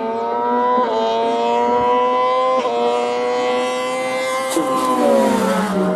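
Hill-climb race car engine at high revs, pulling hard: the pitch climbs steadily and drops sharply twice, about a second in and again past two and a half seconds, as the gears shift up. Near the end the revs fall away steeply.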